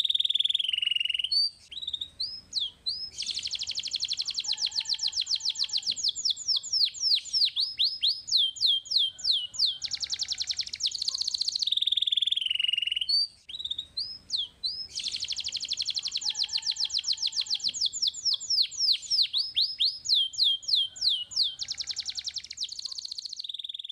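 Domestic canary singing: long, fast rolling trills alternate with rows of quick down-sweeping chirps. The same song phrase comes round twice, the second starting about halfway through.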